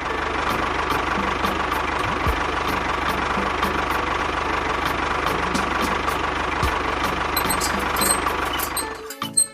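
A small motor running steadily with a constant whine, cutting off about nine seconds in.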